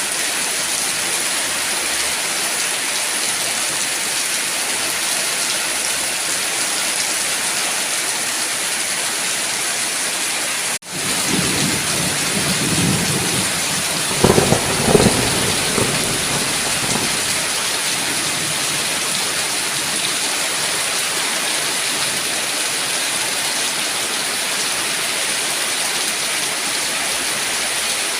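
Steady heavy rain hissing. About eleven seconds in, the sound cuts out for an instant, then thunder rumbles in with two sharp cracks and fades away over the next several seconds, while the rain carries on.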